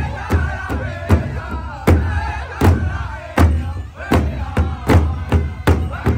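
Powwow drum struck by a group of drummers in a steady beat, about two and a half strokes a second, with several voices singing together over it.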